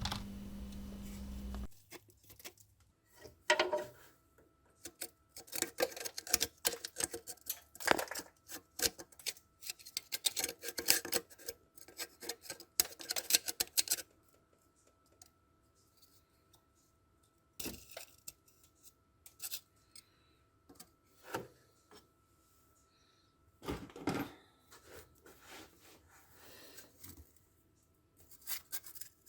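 Hand tools working on metal engine parts: short scraping and clicking sounds in quick clusters for the first half, then scattered clicks and scrapes with longer pauses.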